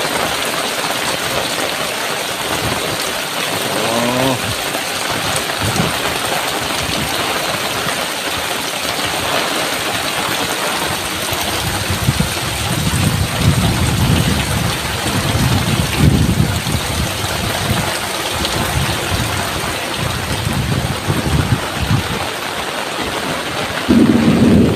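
Heavy rain pouring steadily. In the second half, gusts of strong wind rumble and buffet the microphone.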